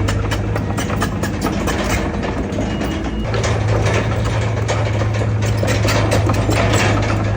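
Heavy diesel engine of earthmoving machinery running steadily, with frequent metallic clanks and rattles; the engine note steps up and grows louder about three seconds in.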